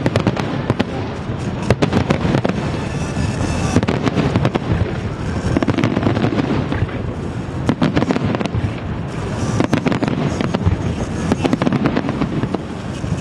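Aerial fireworks display: shells bursting in quick, overlapping succession, many sharp bangs over a continuous rumble of explosions.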